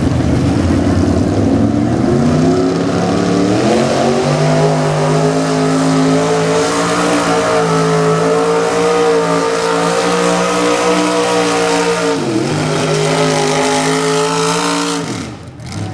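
Two-wheel-drive super stock pulling truck's engine at full throttle, dragging a weight-transfer sled down the track. The revs climb over the first few seconds and hold high and steady. They dip sharply about twelve seconds in and climb back, then drop away as the throttle is let off near the end.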